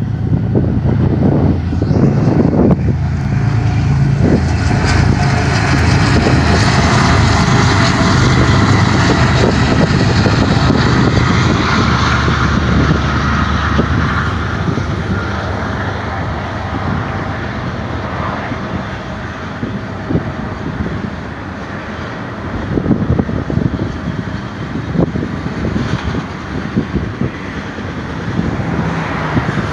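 A BNSF double-stack intermodal freight train passing, led by four GE ES44-series diesel locomotives. The locomotives' engines drone loud and steady for about the first twelve seconds. The sound then eases into the rumble and clatter of the container cars' wheels on the rails.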